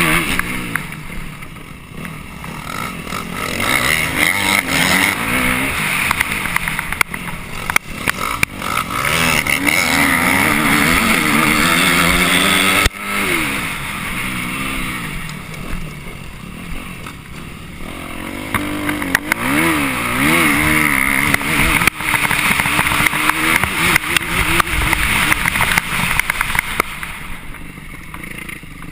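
Dirt bike engine heard close from an onboard camera, revving up and dropping back over and over as the rider accelerates, shifts and brakes, with frequent sharp knocks and clatters.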